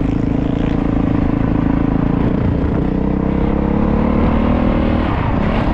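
Four-stroke 450 dirt bike engine running at a steady pitch, which climbs slightly over the last couple of seconds.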